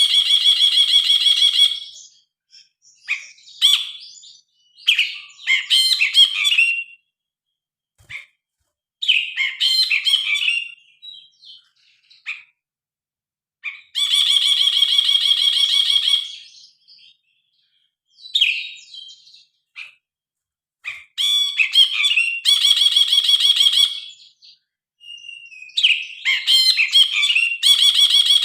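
Brinji kelabu bulbul singing loudly. Its song alternates rapid, buzzy rattling trills of about two seconds with shorter, varied chirping and whistled phrases, separated by brief pauses.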